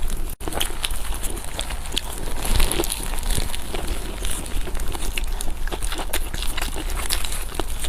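Close-miked eating sounds: a person chewing and biting food, with wet mouth clicks and crackles coming in quick, irregular succession. The sound cuts out for an instant just after the start.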